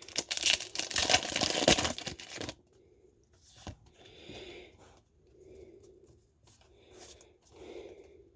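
A foil Pokémon card booster pack torn open with loud crinkling for about two and a half seconds. Then fainter rustling and sliding as the cards are handled.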